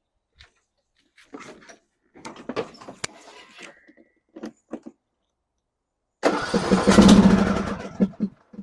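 A John Deere E100 riding mower's starter cranking the engine for about two seconds, a loud pulsing sound, without the engine catching: a no-start. A few clicks and rustles come before it.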